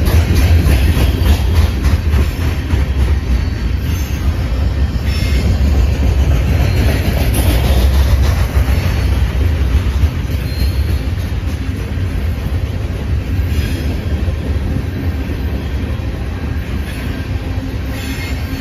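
Empty open-top coal cars of a CSX freight train rolling past: a steady, loud low rumble of steel wheels on rail, with occasional clanks.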